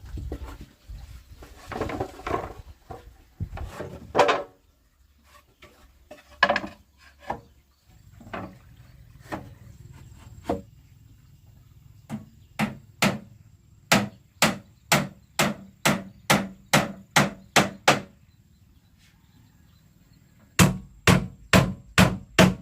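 A hammer striking wood in an even run of blows, about two a second, and a short run of five more near the end. Before that come scattered knocks and scraping of wood being handled.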